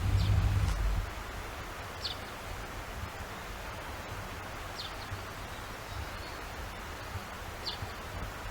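Chaffinch giving a short, high call four times, a few seconds apart, over a steady outdoor hiss. A low rumble in the first second.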